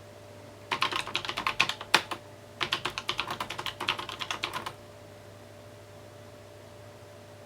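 Typing on a mechanical keyboard: two quick runs of key clicks split by one louder keystroke about two seconds in. The typing stops a little past halfway.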